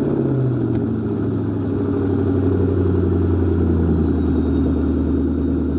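Car engine idling steadily with a low rumble just after being started and revved, its idle settling over the first few seconds.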